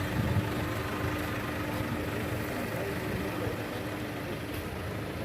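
An engine running steadily at idle, with a steady hum that stops a little before the end.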